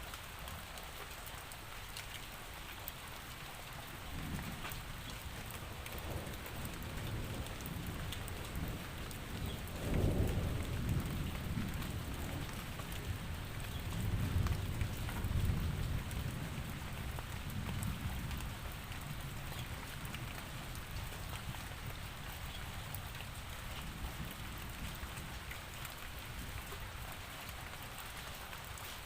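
Steady rain falling, with low rolling thunder swelling up several times. The loudest rumble comes about a third of the way in and another follows around the middle.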